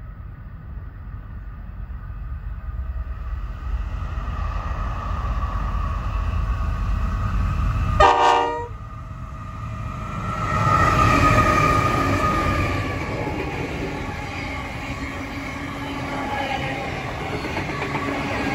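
Diesel freight train, led by 93 class and G class locomotives, approaching with a rumble that builds steadily. A short horn blast sounds about eight seconds in. The locomotives then pass close by, and the container wagons roll past on the rails.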